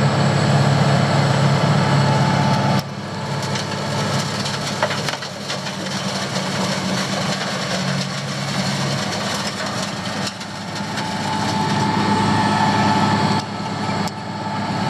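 Asphalt milling machine at work: its engine drones steadily while the cutting drum grinds up old road asphalt. The sound drops sharply about three seconds in and again near the end.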